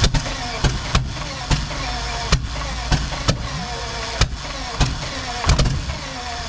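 Rolls-Royce Meteor V12 engine being turned over on a start attempt before it has caught: a steady low drone broken by irregular loud pops roughly once a second.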